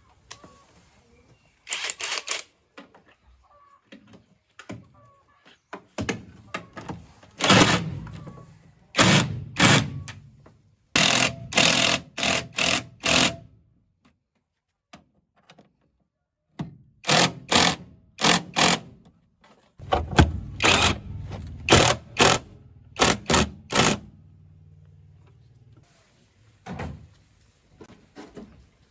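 Irregular knocking and clattering: groups of quick sharp strikes, several in a row, with pauses between the groups and a longer lull about halfway through.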